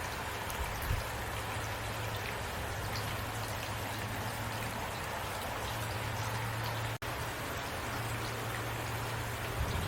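Heavy rain falling steadily, with a low steady hum underneath and a split-second dropout about seven seconds in.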